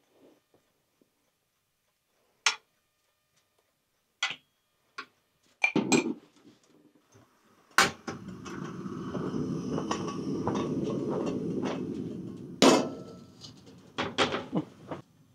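Cookware and utensils being handled: separate sharp knocks and clinks, a steady rushing noise for about four seconds in the middle, then a loud knock and a quick run of clicks near the end.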